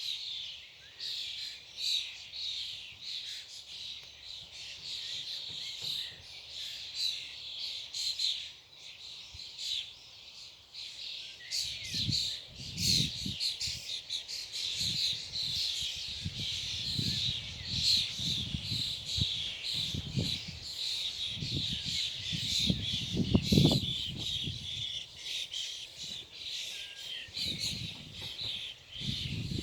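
A flock of birds chirping and calling over one another in a dense, continuous chorus. From about twelve seconds in, irregular low rumbles sound on the microphone under the chirping.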